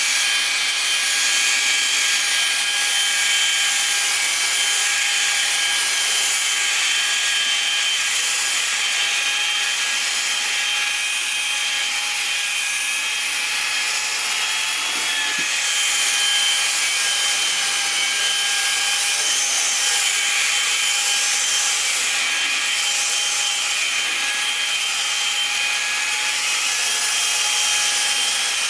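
Electric motor-driven brush scrubbing a car's carpet floor mat: a steady motor whine under the hiss of bristles rubbing the carpet, swelling and easing as the brush is worked back and forth.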